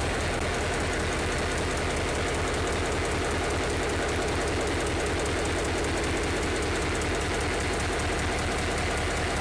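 Locomotive running steadily, a low engine rumble with train rolling noise, while the train is being braked to a stop.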